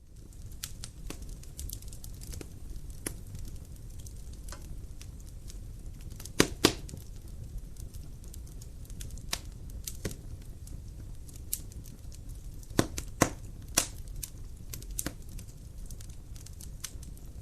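Wood fire crackling in a fireplace: a steady low rumble and hiss with scattered sharp pops and snaps. The loudest are a pair of pops about six and a half seconds in and three more close together around thirteen seconds.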